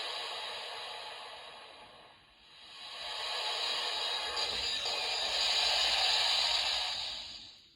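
Kamen Rider W Double Driver toy belt playing its transformation sound effect through its small speaker: a whooshing, wind-like rush that fades about two seconds in, swells again and cuts off near the end.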